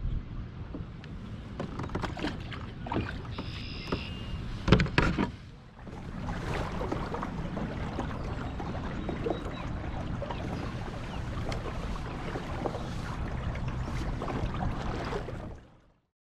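Water sloshing around a fishing kayak, with scattered knocks and clatter of gear on the hull. There is one loud knock about five seconds in, and the sound cuts off suddenly near the end.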